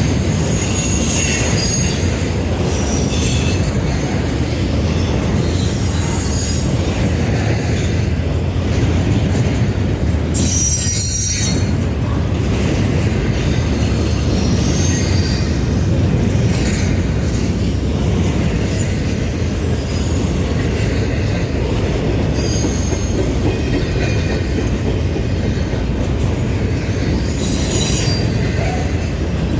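Train running past on steel rails: a steady loud rumble of wheels, broken again and again by short high-pitched wheel squeals, with a brief sharp hiss about eleven seconds in.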